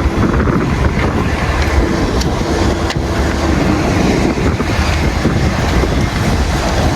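Wind buffeting the microphone: a steady, loud rumbling noise.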